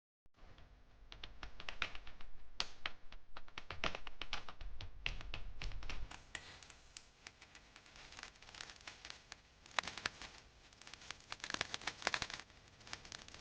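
Raindrops dripping and tapping on hard surfaces: faint, irregular light ticks. They come thick for the first few seconds and again at about eleven to twelve seconds in, and are sparse in between.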